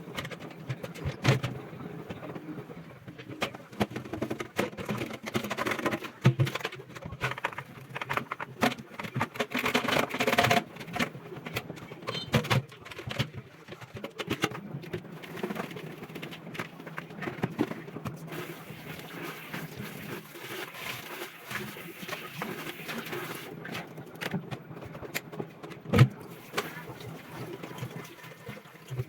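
Food packages, jars and containers being handled and set down as a kitchen food cabinet is emptied: irregular knocks and clatter, with one sharper knock near the end, over a steady low hum.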